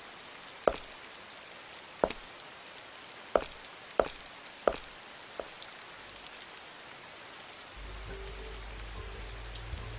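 Six sharp, separate taps over about five seconds, against a quiet background. Near the end a low steady hum with a faint held tone comes in.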